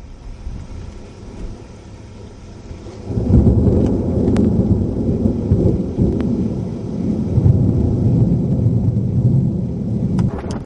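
Thunder: a loud, low rolling rumble that breaks in suddenly about three seconds in and goes on for about seven seconds, swelling and easing, during a rainstorm.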